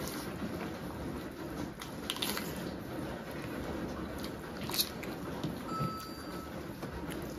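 Close-up eating sounds: chewing and biting into curried chicken feet, gizzards and liver eaten with rice by hand, with soft wet squishes and scattered small crunchy clicks, one sharper crack nearly five seconds in.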